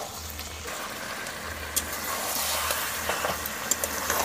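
Chicken and potato curry sizzling in a kadhai while a metal spatula stirs and scrapes through it, with a few sharp clicks.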